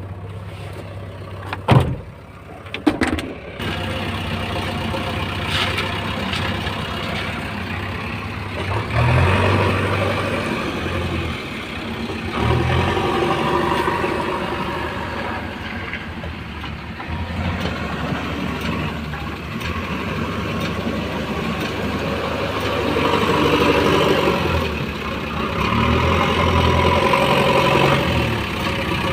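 Diesel engine of heavy earthmoving machinery running, with its revs rising and falling several times under work. Two sharp clanks about two and three seconds in.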